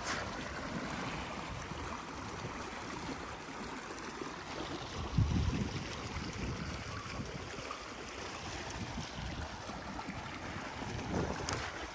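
Water flowing steadily through a beaver dam that is being torn out, with a dull thump about five seconds in.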